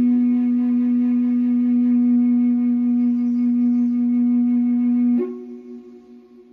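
Native American-style cedar flute holding one long low note. About five seconds in, the note breaks to a slightly higher tone that fades away.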